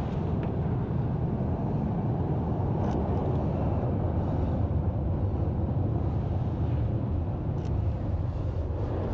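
Wind buffeting the camera microphone: a steady, low rumble, with a few faint clicks.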